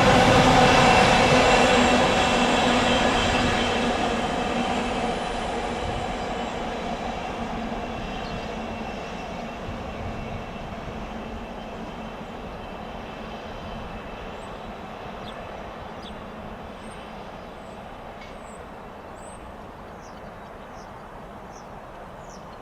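Diesel-hauled freight train rolling past and fading steadily into the distance, its rumble and a few steady ringing tones dying away. Birds chirp faintly in the second half.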